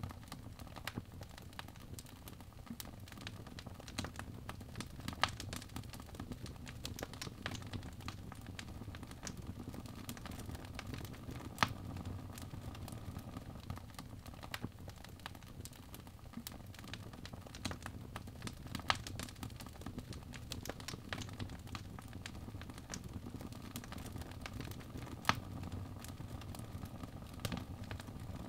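Birch logs burning in a fireplace: a steady crackle of small snaps over a low rumble of flame, with a louder pop every six or seven seconds.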